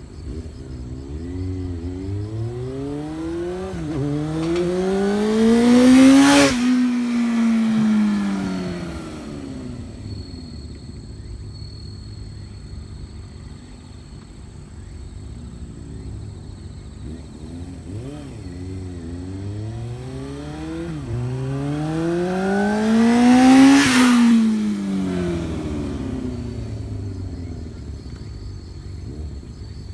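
1999 Suzuki Impulse's inline-four engine breathing through an unbaffled Big One slip-on silencer, running with a deep rumble and twice revving hard up the range, about a quarter of the way in and again past two-thirds, each time peaking and falling back.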